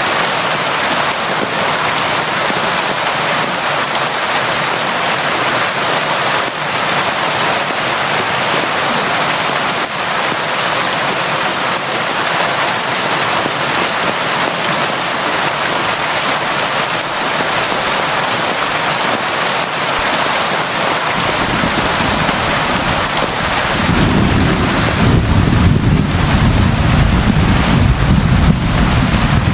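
Steady heavy rain, an even hiss. About two-thirds of the way in a deep low rumble comes in and grows louder toward the end.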